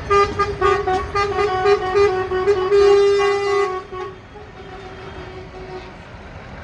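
A vehicle horn tooting in a quick run of short blasts, then one longer blast that stops about four seconds in. Engine rumble carries on underneath.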